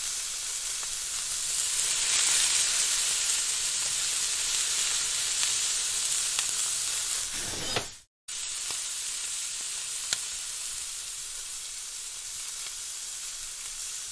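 Minced meat sizzling as it fries in an aluminium pot, stirred with a wooden spatula, with a couple of sharp taps of the spatula on the pot. The sizzle cuts out for a moment about eight seconds in and then carries on a little quieter once chopped onion, green chilli and herbs are in the pot.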